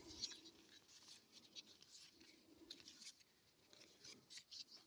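Faint scratchy rustling and soft scattered clicks of hockey trading cards being slid and flipped through by hand.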